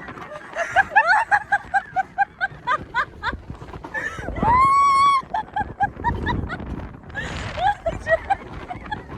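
Riders laughing hard in quick high bursts, with one long high-pitched scream near the middle, over a low rumble of wind and the coaster car running.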